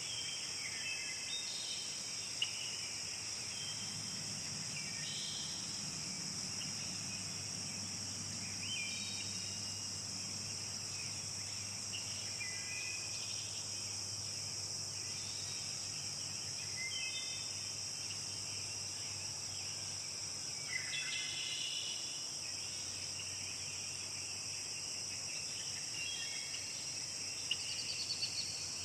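Forest ambience: a steady high-pitched drone of insects such as crickets, with short bird calls and chirps now and then.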